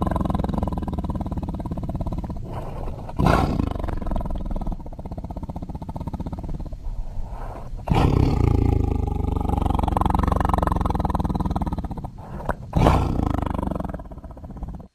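Tiger roaring: a run of deep, drawn-out roars, with new loud roars starting about 3, 8 and 13 seconds in. It cuts off suddenly near the end.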